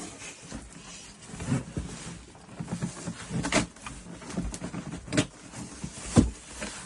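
Cardboard boxes and packaging being handled and rustled, with several sharp knocks and thumps at irregular intervals.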